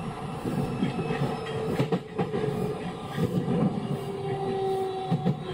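Osaka Metro 66 series electric train running, heard from inside the car: steady rolling rumble with clickety-clack knocks from the wheels over the rails and a faint steady whine at times.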